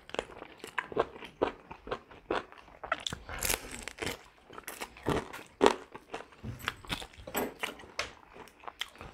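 Close-miked mukbang eating of roast chicken: biting and chewing meat off the bone, heard as many short, irregular mouth clicks and smacks.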